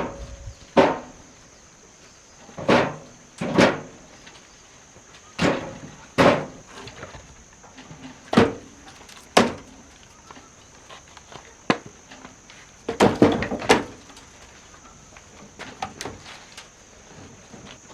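A slow, irregular series of about a dozen heavy knocks and thuds, roughly one every second or two, with a quick cluster of them about two-thirds of the way through.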